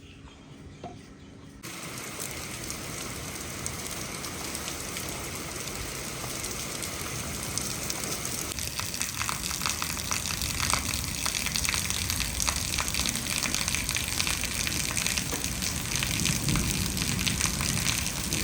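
Heavy rain pouring down, a steady rush that comes in suddenly about two seconds in and grows louder, with the patter of individual drops becoming sharper after the middle.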